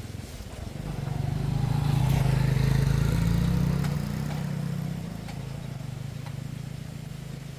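A motor engine running, its low hum growing louder to a peak about two to four seconds in and then fading back down.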